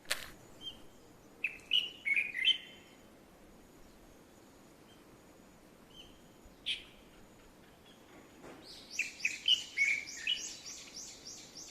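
Wild birds chirping and calling: a quick cluster of chirps about two seconds in, a single call near the middle, then a fast run of high repeated notes, about four a second, over lower chirps in the last three seconds.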